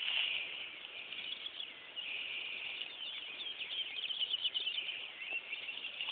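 Birds chirping over a steady high hiss, with a quick run of chirps about three to four and a half seconds in.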